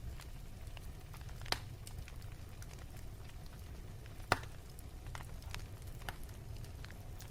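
Wood fire burning with a low steady rumble and scattered sharp crackles, two louder pops about one and a half seconds and four seconds in.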